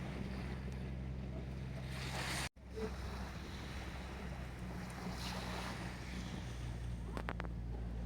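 Harbour waves washing against the shore, swelling in and out every few seconds over a steady low hum. The sound cuts out completely for an instant about two and a half seconds in.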